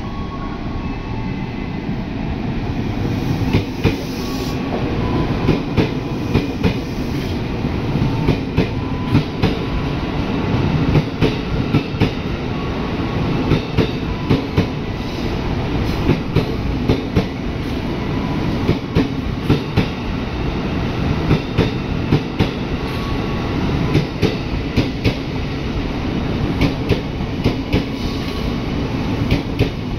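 Ex-Tokyo Metro 6000 series electric commuter train running along a platform: a steady rumble of wheels on rail, with sharp wheel clacks in quick pairs about every second as the bogies cross rail joints.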